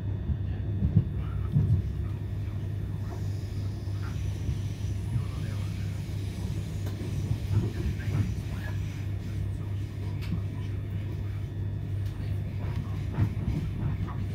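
Interior rumble of a c2c electric train running at speed, heard from inside the passenger car: a steady low rumble with occasional short knocks.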